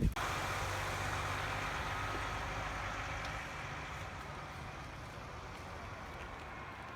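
A motor vehicle's engine running steadily, starting abruptly and slowly growing fainter.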